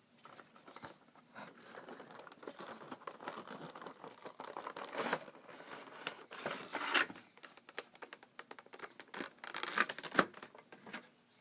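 Funko Pop figure packaging being opened by hand and the figure taken out: irregular rustling and crinkling of the box and its plastic insert, with scattered clicks and taps. The handling is loudest about five, seven and ten seconds in.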